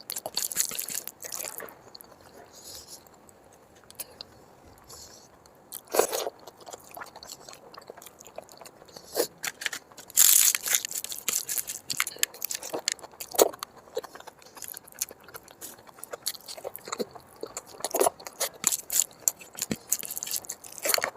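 Close-miked chewing and mouth sounds of a person eating mutton fat curry with rice: irregular wet smacks and clicks, with a quieter stretch a few seconds in and the loudest burst about ten seconds in.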